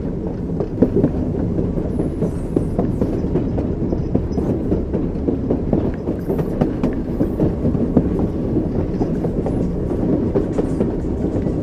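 Train wheels clattering over rail joints, a continuous low rumble with scattered sharp clicks.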